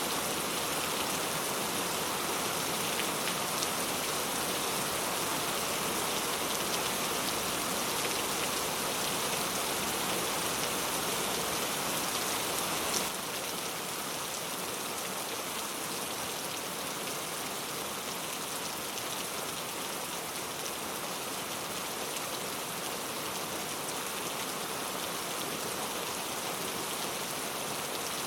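Steady rain falling, a dense even hiss of drops. About halfway through a faint tick is heard and the rain drops slightly in level.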